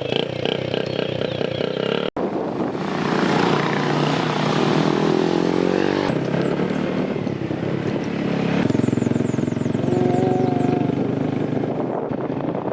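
Vehicle engine running under way, its pitch rising and falling, with the sound changing abruptly a few times.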